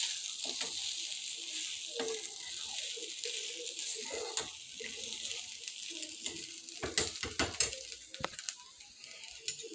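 Rice sizzling as it is stir-fried in a steel kadhai, with a steel spoon scraping through it against the pan. A few sharp metal clinks come about seven to eight seconds in.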